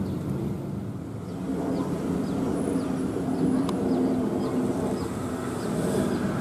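Aircraft engines running on the airfield, a steady low noise with a few held tones that grows louder from about a second and a half in.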